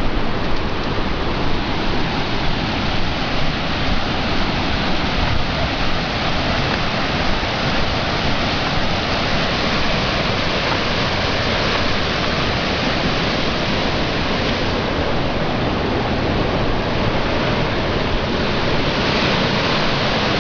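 River swollen by typhoon rain, fast water rushing steadily and loudly.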